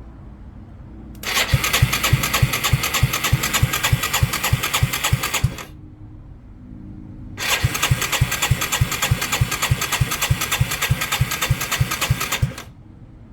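Yamaha Timberwolf ATV's electric starter cranking the engine twice, each attempt about four to five seconds long with a brief pause between, the engine turning over with about five or six even compression beats a second. It never fires or catches: the ATV won't start.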